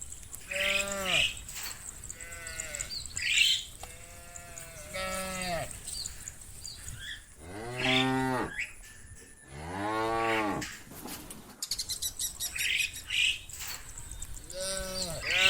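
Cows mooing repeatedly, one call every couple of seconds, each moo rising and then falling in pitch; the two longest and lowest moos come a little past halfway.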